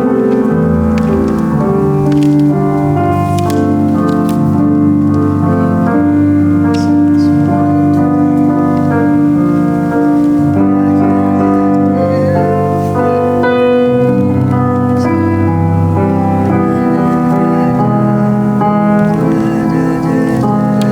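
Piano playing a slow hymn: held chords with a melody over them, changing every second or two.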